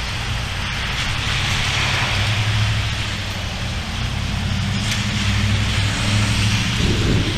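Heavy thunderstorm rain falling steadily, with a continuous low rumble underneath.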